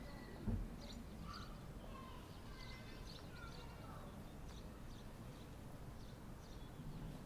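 Small birds chirping and whistling, with short repeated chirps and a few clear whistled notes, over a low outdoor rumble; a single dull thump about half a second in.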